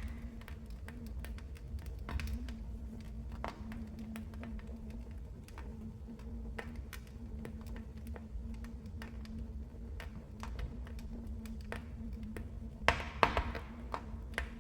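Wood fire in a fireplace crackling: irregular sharp pops and snaps over a low rumble of the flames, with a quick burst of louder pops near the end.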